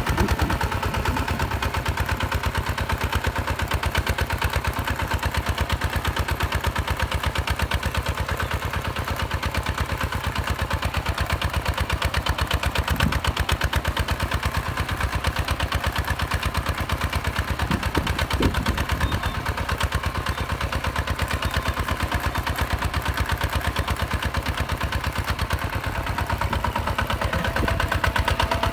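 Hinota HG Gold 155 DI direct-injection diesel tractor engine running steadily at an even idle, with a rapid, regular firing beat.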